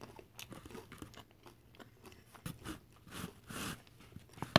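Close-up chewing of crunchy tortilla chips loaded with cheese, salsa and meat: a run of wet crunches and small crackles. The crunching is denser a little past the middle, and a single sharp loud snap comes near the end as more chips are picked from the foil pan.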